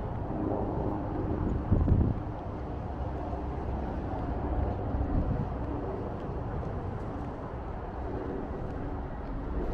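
Outdoor city ambience dominated by a steady, low engine drone from passing motor traffic. There is a brief gust of wind on the microphone about two seconds in.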